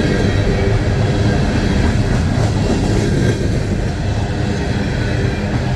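Empty coal hopper cars of a long freight train rolling past at about 20–25 mph, with a steady rumble of steel wheels on the rails.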